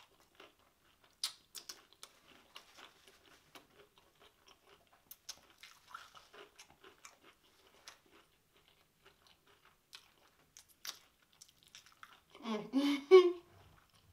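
Close-up chewing of crunchy panko-breaded fried seafood, with many small crackles and crunches. About a second before the end comes a short, louder voiced sound from the eater.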